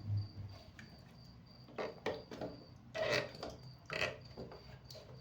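A few faint, short knocks and scrapes of plastic parts being handled as the toilet tank's fill-valve adjustment screw is worked loose.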